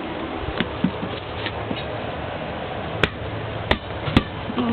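A few sharp knocks over a steady background hiss, four clear ones spread over several seconds.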